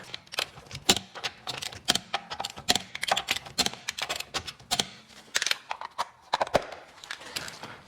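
Torque wrench clicking in quick, irregular runs while wheel bolts are tightened to their specified torque.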